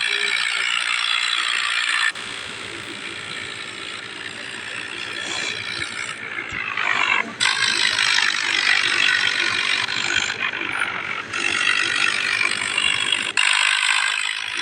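Farm machinery rattling harshly and continuously, cutting off and resuming abruptly about two seconds in, about seven seconds in and near the end.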